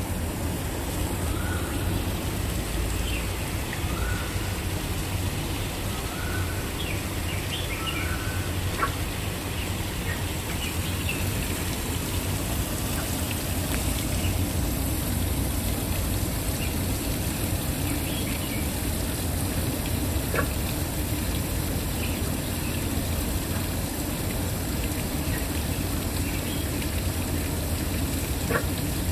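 Waterfall rushing steadily, with a bird calling over it: four short, slightly rising notes about two seconds apart in the first eight seconds, and scattered higher chirps.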